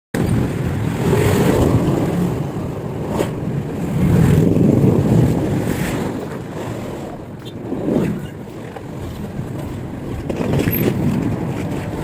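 Wind buffeting a phone's microphone during an e-bike ride, a heavy rumble that swells and eases, with road traffic underneath; it starts abruptly.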